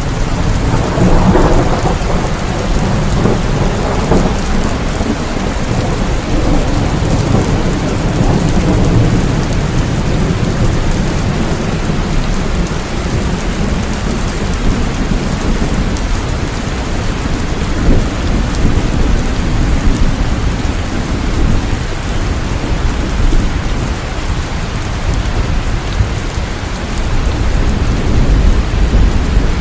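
Steady heavy rain with rolling thunder rumbling low underneath, the rumble swelling about a second in and again near the end.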